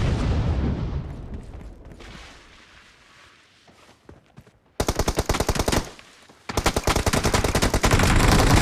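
Video game automatic gunfire: a heavy low boom dies away over the first three seconds, then a rapid burst of shots about five seconds in and sustained automatic fire from about six and a half seconds on.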